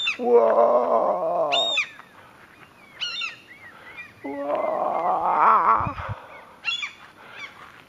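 Gulls giving short, sharp alarm cries overhead as they dive at an intruder near their nest with young. Over them a man lets out two long, loud shouts of "whoa", about two seconds in and again near six seconds.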